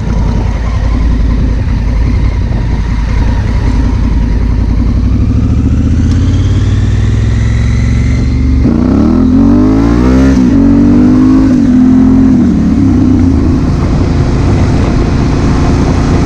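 Honda Africa Twin CRF1000L's parallel-twin engine running under way. The engine note climbs gradually, then rises sharply in revs about nine seconds in under hard acceleration and holds at a steady higher pitch.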